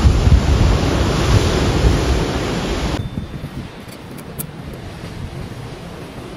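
Ocean surf with wind buffeting the microphone in loud, gusty rumbles, cutting off abruptly about three seconds in to a quieter steady hiss with a few faint clicks.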